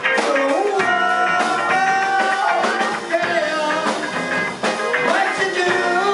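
A live rock band playing, with a lead vocal singing held, bending notes over electric guitar and a steady beat.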